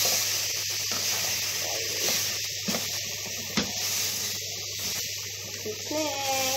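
Chicken and chopped vegetables (potato, squash, carrot, green pepper) sizzling steadily in a frying pan as they are stirred with a wooden spatula, with a few knocks of the spatula against the pan.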